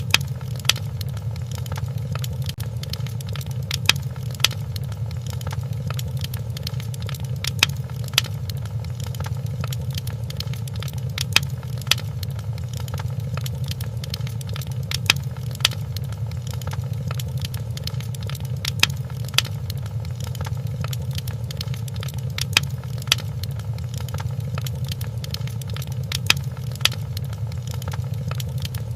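Wood fire crackling in a fireplace: a steady low rumble with a faint hiss, broken by sharp pops that come in pairs about every four seconds.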